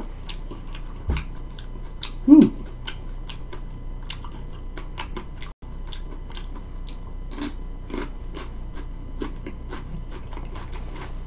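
Close-up chewing of a raw mild pepper: irregular crisp crunching clicks all through. There is a soft thump about a second in and a brief hummed voice sound at about two and a half seconds.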